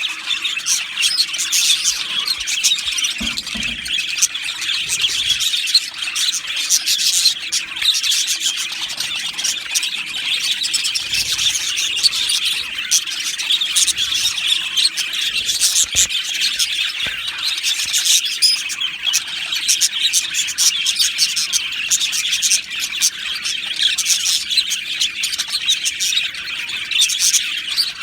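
A colony of budgerigars chirping and warbling together in an aviary, a dense, continuous chatter of many overlapping high calls.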